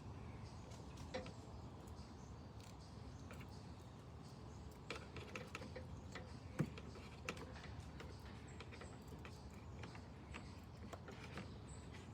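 Faint scattered clicks and light taps of hand tools being handled at an engine's spark-plug hole, with one sharper knock about six and a half seconds in.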